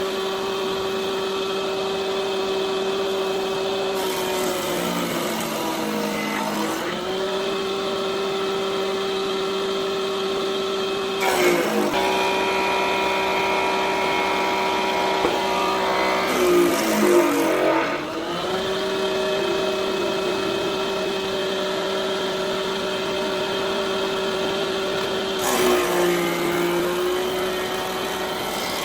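An electric woodworking power tool's motor runs at a steady high pitch, dropping in pitch three times as it is pushed into shisham wood. There is a short rough crackle partway through.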